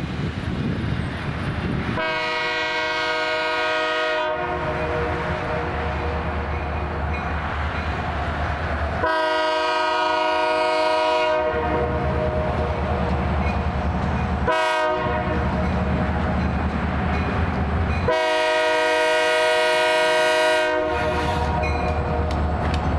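Diesel freight locomotive's multi-chime air horn sounding the long-long-short-long grade crossing signal as the train approaches a crossing, over the low rumble of the locomotive.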